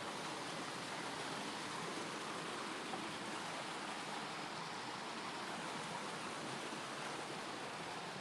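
Steady rush of water from a mountain stream flowing over rocks.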